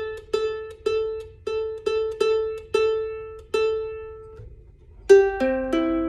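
Strong Wind soprano ukulele's A string plucked about eight times, one note repeated while it is brought to pitch on a tuner. Near the end several strings ring out one after another in a rolled chord, checking the tuning.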